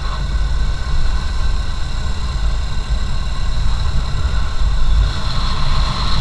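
Motorcycle engine running on the move, with heavy, gusting wind rumble on the microphone.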